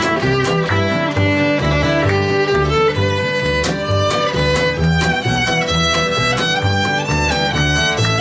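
Acoustic bluegrass band playing an instrumental break, with a fiddle carrying the melody over a steady boom-chuck rhythm guitar of about two beats a second.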